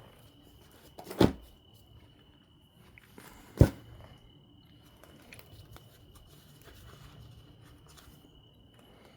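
Flintknapping billet striking an obsidian biface twice, about a second in and again some two and a half seconds later, with faint clicks of handling and small flakes between. A steady high cricket trill sounds underneath.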